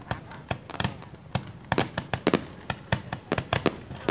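Rocket fireworks going off in a rapid, irregular string of sharp bangs, several a second.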